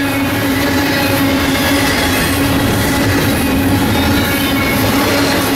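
A double-stack container freight train rolls past close by, its wheels running loud and steady on the rails with a steady low hum under the wheel noise.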